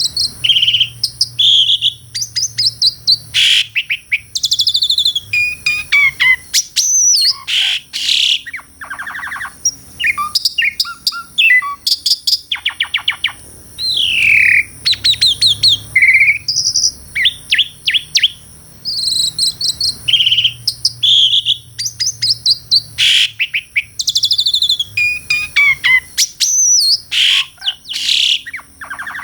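Asian pied starling (jalak suren) singing continuously, a fast, varied run of clear whistles, rising and falling glides and rapid chattering notes broken by short pauses.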